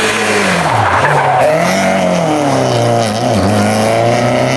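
Rally car engine running at high revs, its pitch dropping sharply about a second in and again a little past three seconds, each time climbing back up.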